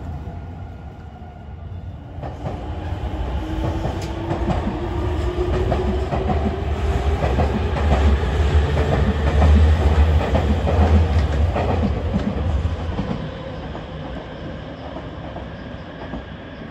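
Nankai 50000 series Rapi:t airport express train running along elevated track, its wheels clattering over rail joints under a whine that rises slowly in pitch. It is loudest about halfway through, then fades as the train pulls away.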